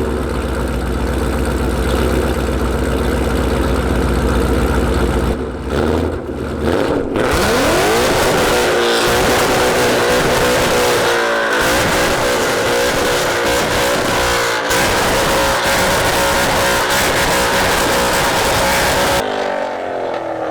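Ford Mustang's 5.0 Coyote V8, fitted with Borla headers and a 3-inch cat-back exhaust, running loud and steady, then revved hard from about seven seconds in with rising pitch and held at high revs before cutting off sharply near the end.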